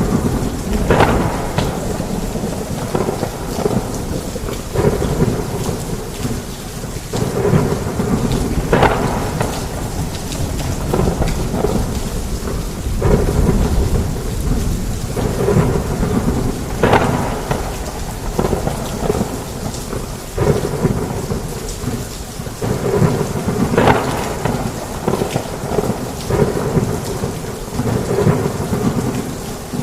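Heavy rain pouring on a roof, with thunder rumbling low throughout and sharp cracks every few seconds.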